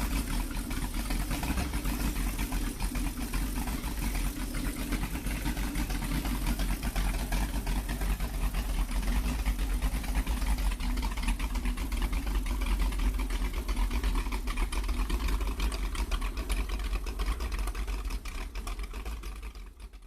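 Modified 1966 Buick 425 nailhead V8 with dual Carter AFB carburetors running at a steady speed. It fades out near the end.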